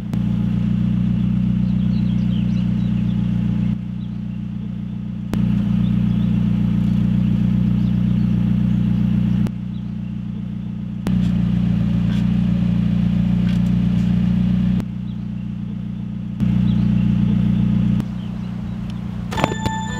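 An engine idling steadily with a low, even hum, held at the start line. It swells to a louder stretch four times, for a few seconds each, and drops back to a quieter hum in between.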